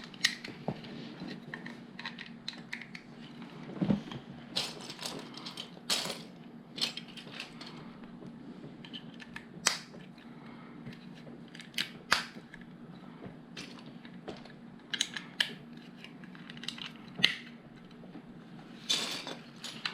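Plastic LEGO pieces clicking and clattering as they are handled, picked through and pressed together, in irregular sharp clicks about every second or two over a faint low hum.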